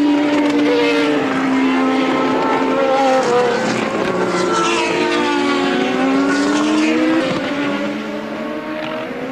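Several 1983 Formula One cars' engines at high revs, their overlapping notes rising and falling in pitch as the cars pass and change gear.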